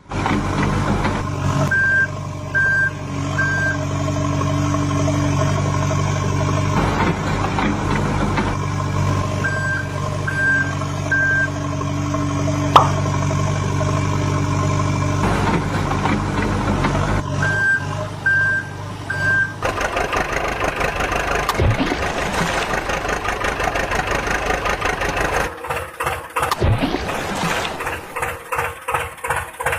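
Heavy construction vehicle engine running steadily, with a reversing alarm sounding three quick beeps at a time, about every eight seconds. About twenty seconds in, this gives way to a rapid mechanical clatter and rattle that becomes choppy near the end.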